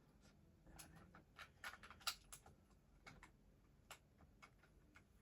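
Faint, irregular small clicks and taps from a small plastic toy train being handled and fitted together.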